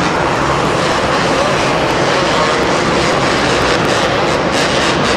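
Two-stroke supercross motorcycle engines running at high revs, a loud, steady buzz that keeps up without a break.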